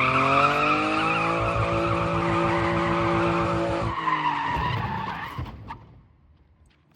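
A car drifting: tyres squealing over a steady, high engine note. About four seconds in the squeal stops and the sound fades out.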